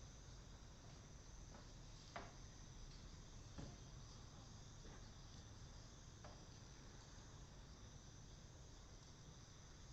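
Faint, steady high chirring of crickets, with a few sharp pops and crackles from a burning Japanese cedar (sugi) wood fire, the loudest about two seconds in.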